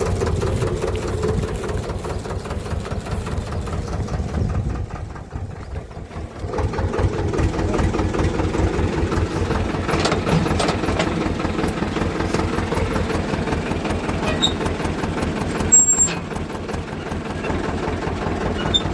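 A Swaraj tractor's diesel engine is running with a steady, even throb. It drops back for a moment about five seconds in, then picks up again. A brief high-pitched sound, the loudest moment, comes about three seconds before the end.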